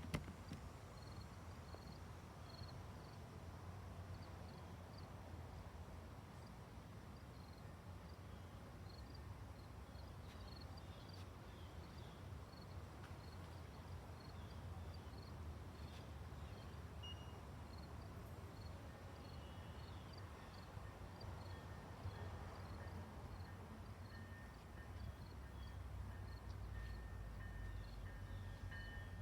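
Faint sound of a train approaching: a low rumble that builds over the last few seconds, with a thin steady high whine coming in about two-thirds of the way through. Small high chirps repeat throughout.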